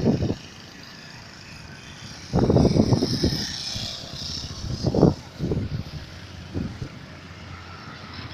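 Gusts of wind buffeting the microphone in ragged bursts, loudest a couple of seconds in and again around the five-second mark. Under them is the faint, high whine of the approaching An-32 twin turboprop.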